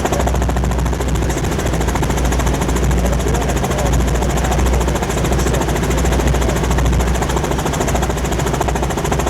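Helicopter heard from inside the cabin in flight: a steady, rapid beat of the rotor blades over a loud low engine drone.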